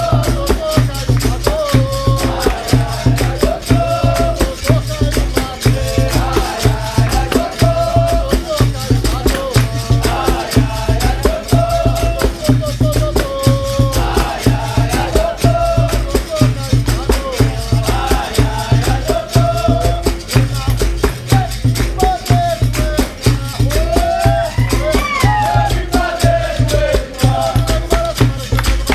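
Capoeira roda music: a group sings call-and-response over a steady, fast percussion rhythm from berimbaus with their caxixi shaker rattles and a pandeiro's jingles.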